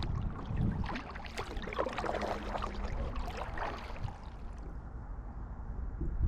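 Kayak paddle strokes through water: splashing and dripping from about one second in until about four and a half seconds, over a steady low rumble.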